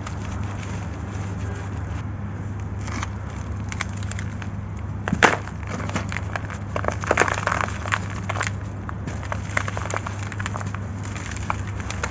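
Dry, gritty sand-cement chunks being crumbled, with scattered crunches and crackles that start about five seconds in, one sharp crack first and then a dense run of crunching, over a steady low hum.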